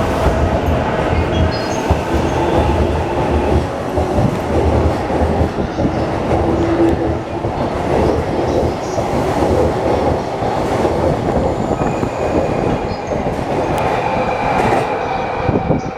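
JR East E233-1000 series electric train pulling out of the station and running along the track, its wheels clattering over the rail joints, with a faint steady tone in the mix.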